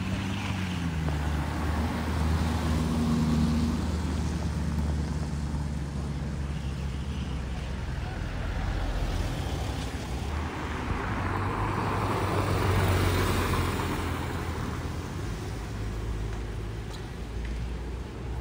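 Lamborghini Urus twin-turbo V8 running at low speed as the SUV rolls slowly by, a steady low engine hum that swells louder and fades again about two-thirds of the way through.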